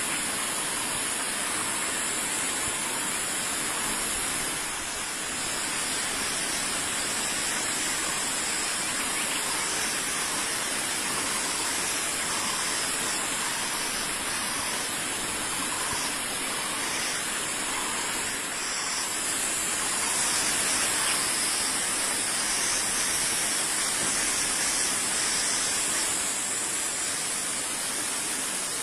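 Steady, even hissing noise, brightest in the high range, with faint short calls recurring every second or two through the middle.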